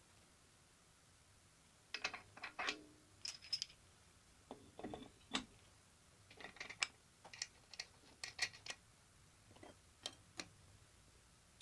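Small metal parts and tools being handled on a workbench: irregular clicks and clinks in small clusters, starting about two seconds in.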